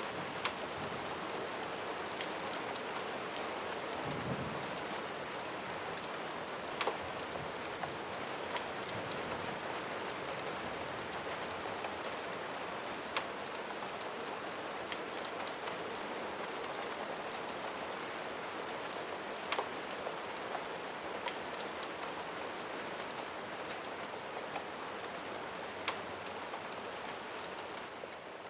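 Steady, dense rain hiss, with scattered sharp clicks and pops every few seconds and a brief low rumble about four seconds in.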